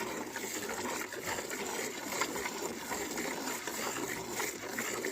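Cow being hand-milked: soft, rhythmic squirts of milk with small wet clicks, as kittens drink from the streams.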